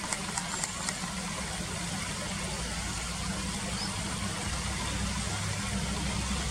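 Steady rush of flowing river water with a low rumble underneath that swells slightly about two-thirds of the way through, and a few short high ticks in the first second.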